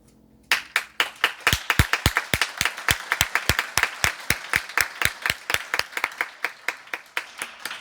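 Audience applause breaking out about half a second in, as the last piano chord dies away. Dense clapping, with one close clapper standing out in strong, even claps about four a second.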